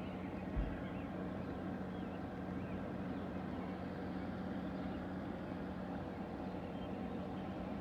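Steady garden ambience after rain: a constant low hum under an even background wash, with faint short chirps from small animals. A single low thump about half a second in.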